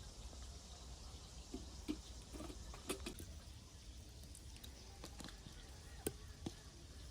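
A few faint, scattered clicks and light taps, with the sharpest about three seconds in and about six seconds in, over a low steady rumble and hiss.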